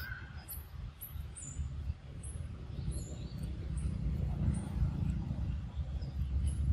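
Short, high-pitched bird chirps repeating about twice a second over a low rumble that grows louder in the second half.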